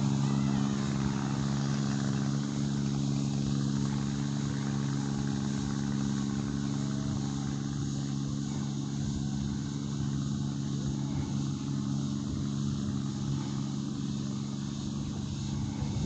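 An engine running at a steady speed, a constant hum that eases off slightly in loudness.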